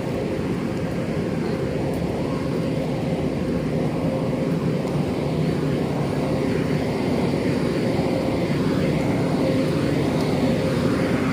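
Express train moving along the platform: a steady rumble of wheels on rail with a steady hum through it, growing slightly louder toward the end.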